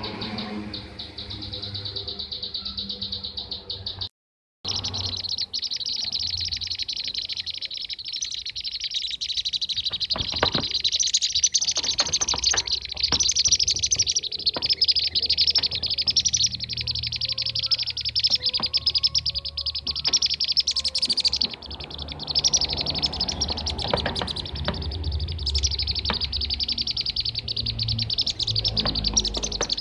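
Kirik-kirik (bee-eater) lure recording: a dense, rapid run of high chirping calls that goes on without a break, apart from a brief cut-out about four seconds in.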